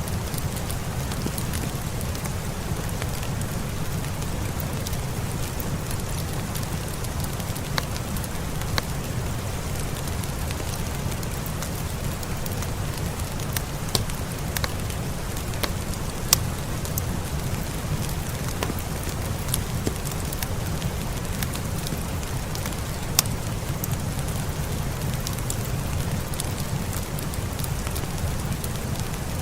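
Steady rain with a deep low rumble, over a wood fire crackling with a few sharp pops scattered through.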